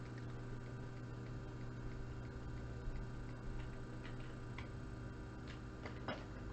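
A few scattered, faint computer keyboard clicks over a steady electrical hum.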